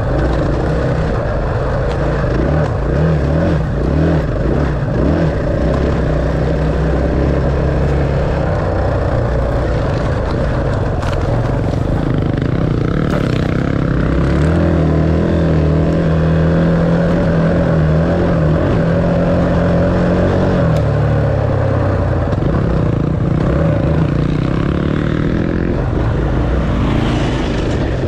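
Dirt bike engine running under changing throttle as it is ridden, its pitch holding steady for several seconds in the middle and then dropping off.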